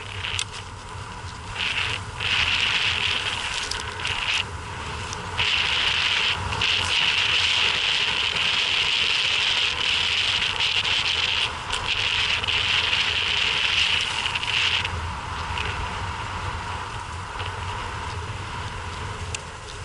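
Quadcopter drone's propellers and motors giving a steady buzzing whine. It swells louder for a few seconds at a time, as the drone changes thrust while flying.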